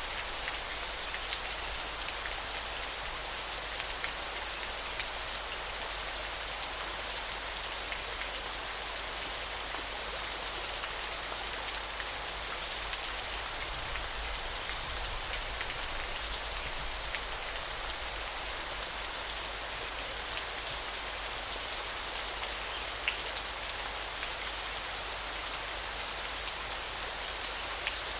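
River water flowing with a steady rushing hiss. A high-pitched buzz swells over it for several seconds near the start, and from about halfway a short high trill repeats about every two seconds.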